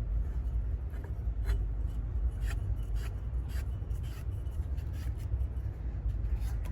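A muffler being screwed by hand onto a minibike exhaust pipe: irregular short scrapes and clicks of metal parts rubbing as it is turned, over a steady low rumble.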